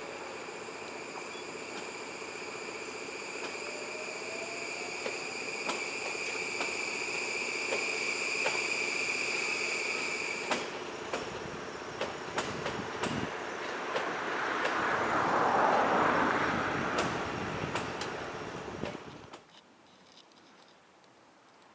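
Electric train running past on the track: a steady high-pitched squeal that stops abruptly partway through, then irregular clicks over the rail joints as the rumble of the passing cars rises and falls. The sound cuts off suddenly near the end.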